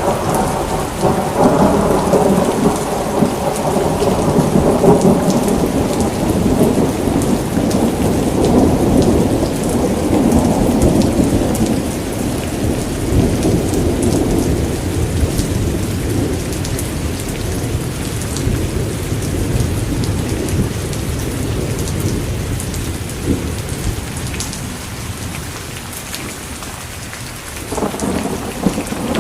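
Steady heavy rain with a long roll of thunder that breaks at the start and slowly rumbles away over most of the span; a new peal of thunder begins near the end.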